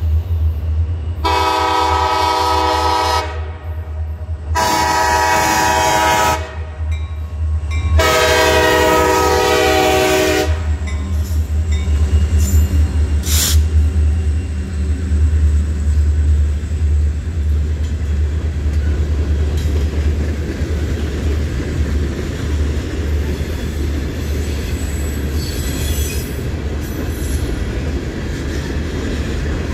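RJ Corman diesel freight locomotives sound three blasts on a multi-note air horn, the last the longest, over the deep drone of their engines. As they pass, a long string of open hopper cars rolls by with steady rumble and wheel clatter, with one brief high-pitched screech a little under halfway.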